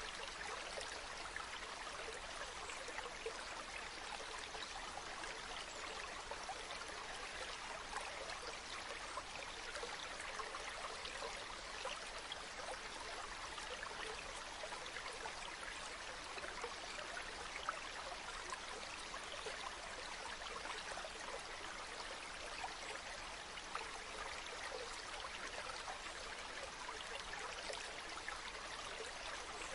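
A river flowing steadily over stones: an even rush of water with many small splashes and trickles through it.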